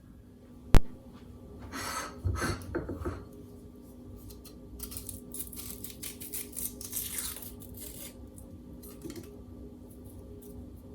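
A sharp click about a second in, then irregular rustling and scraping handling sounds.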